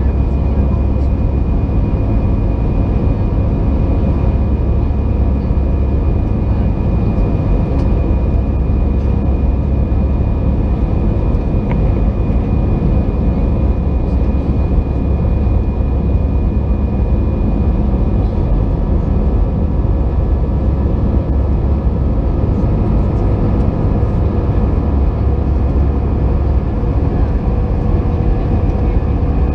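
Airbus A320 airliner heard from inside the passenger cabin: a steady deep rumble of the jet engines and airflow, with a thin high whine over it that fades about two-thirds of the way through.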